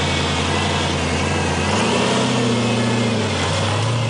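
Lifted Jeep's swapped-in LS1 5.7-litre V8 revving under load as it crawls through deep snow. The engine note rises about two seconds in, holds, dips briefly and climbs again near the end.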